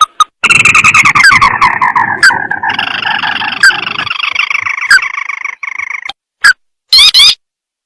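Recorded call of a crake (tikusan sawah) played as a lure. A long, dense trill starts about half a second in and slides down in pitch for about five seconds. Near the end come short, separate upward-sliding calls.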